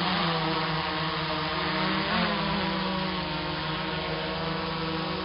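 Autel EVO II quadcopter drone hovering, its four propellers giving a steady buzzing hum, with a brief rise and dip in pitch about two seconds in.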